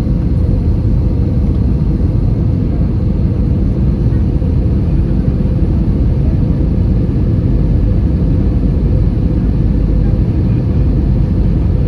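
Airbus A320 cabin noise: a steady, loud low rumble of engines and airflow heard inside the cabin.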